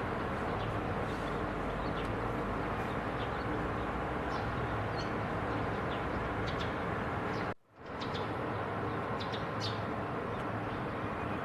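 Small birds giving scattered short, high chirps over a steady background noise. The sound drops out briefly about seven and a half seconds in.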